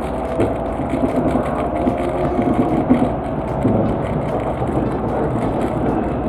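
Steady running noise inside a Tokaido Shinkansen passenger cabin: the rumble of wheels on rail and the train's motors as it travels at speed.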